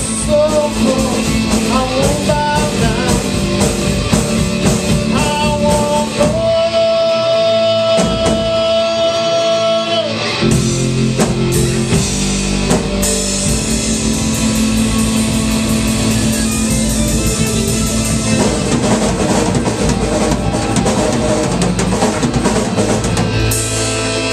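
Live rock band playing with drum kit and guitar. A long held note comes in about six seconds in and lasts a few seconds.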